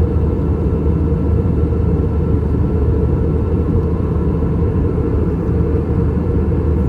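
Steady cabin noise inside an Airbus A321 in flight: a low, even rumble of airflow and its IAE V2533-A5 engines, with a few faint steady tones above it.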